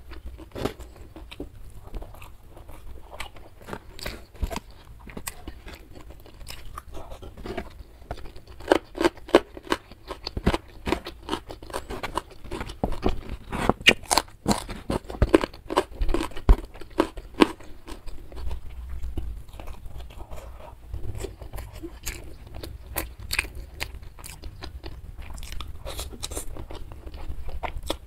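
Close-up chewing and crunching of hand-eaten mouthfuls of rice with squid sambal and raw leunca berries: many quick crunches and wet mouth clicks, thickest in the middle stretch.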